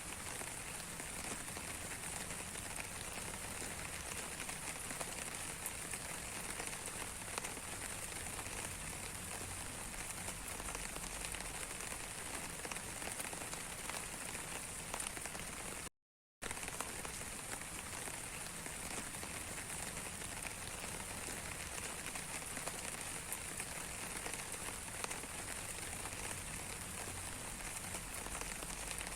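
Steady rain falling, an even hiss of many fine drop ticks on a surface, which cuts out for about half a second midway and then resumes.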